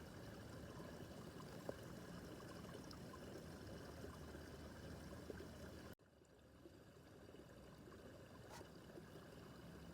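Small babbling brook running faintly and steadily. About six seconds in the sound drops out suddenly, then fades back up over a couple of seconds.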